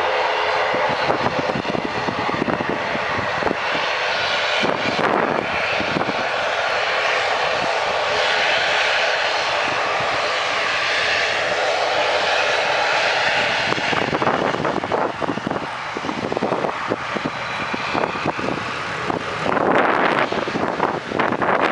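Twin turboprop engines of an ATR 72-500 at take-off power: a loud, steady drone with a propeller hum. Wind buffets the microphone more and more toward the end.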